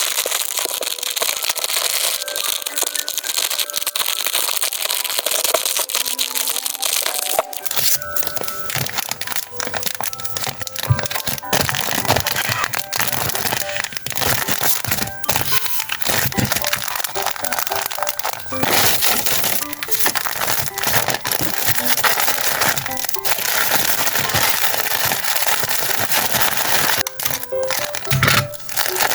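Packaging being handled to wrap hand warmers: continuous rustling and crinkling with many sharp crackles, over soft background music.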